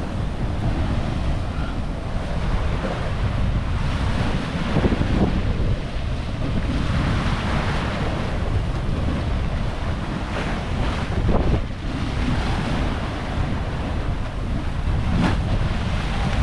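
Wind buffeting the microphone over small waves washing onto a sandy beach, with a swell of surf about halfway through.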